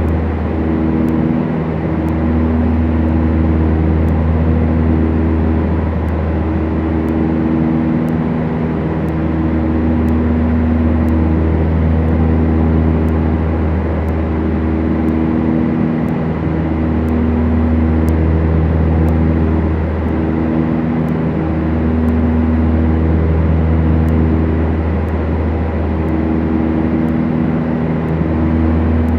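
Twin piston engines of a Beechcraft Duchess running steadily with a deep drone. Their tones slowly swell and fade every few seconds, the beat of two propellers turning at slightly different speeds.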